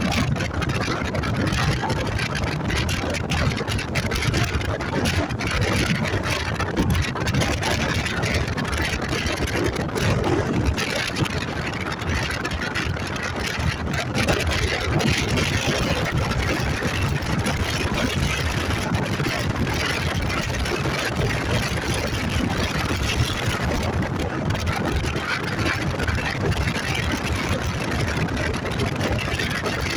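Motorcycle engine running steadily while riding, under a continuous rush of noise.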